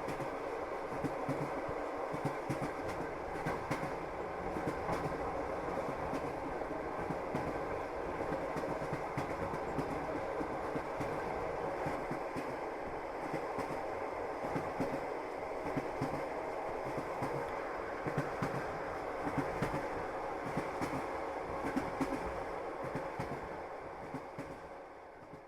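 Passenger train running, its wheels clattering and knocking over the rails with a steady rumble of the carriage, heard from inside the train. The sound fades out near the end.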